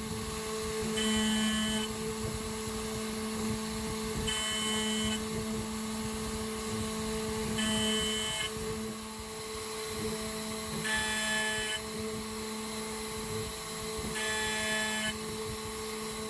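Home-made CNC router's spindle running steadily as its end mill takes a finishing pass in 6082 aluminium. About every three and a half seconds the cutter bites for under a second, giving a short, high ringing whine over the steady hum.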